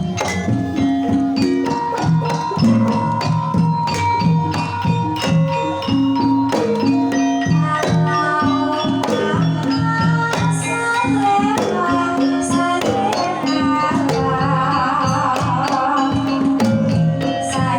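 Javanese gamelan music in the Banyumasan style, playing a tayub gending. Many struck keyed instruments and drum strokes keep a busy, even rhythm under held pitched notes, and a wavering melodic line comes in during the later part.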